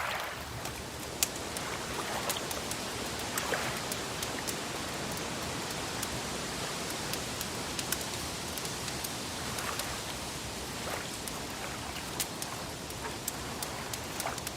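Wood fire crackling: sharp, irregular pops scattered over a steady hiss.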